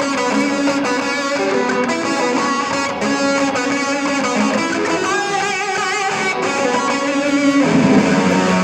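Band music with electric guitar to the fore, strummed and picked guitar chords over a bass line.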